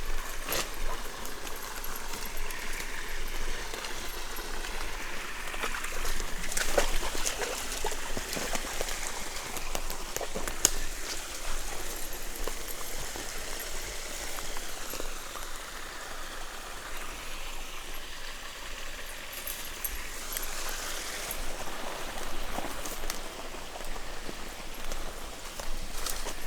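Water trickling and splashing in a shallow forest stream as a dog wades through it, with occasional sharp clicks.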